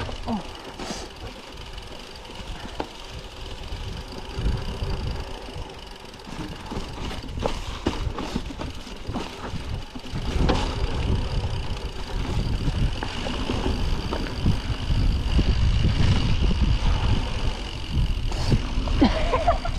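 Mountain bike riding over a snowy trail: a steady low rumble of tyres and wind on the camera microphone, with scattered knocks and rattles from the bike over bumps, getting louder in the second half as the pace picks up.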